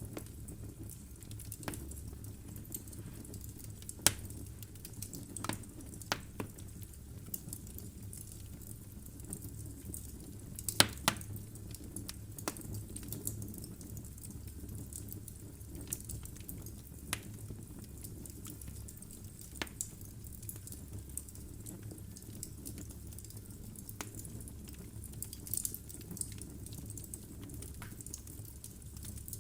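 Wood fire burning in a fireplace: a low steady rumble of flame with irregular sharp crackles and pops from the logs, the loudest about four seconds in and a cluster of pops around eleven seconds.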